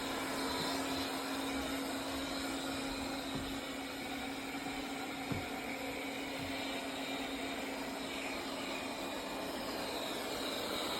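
Tikom L8000 Pro robot vacuum running: a steady hum under an even hiss from its suction, with a single faint click about five seconds in.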